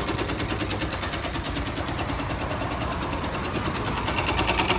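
Yamaha YBR 125's single-cylinder four-stroke engine running with a rapid, even dry knock. The mechanic thinks it probably ran without oil and began knocking in the bottom end.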